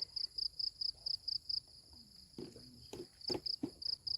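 Cricket chirping steadily with short high pulses, about four a second, pausing briefly midway before starting again. Faint voices and a few light clicks are heard in the second half.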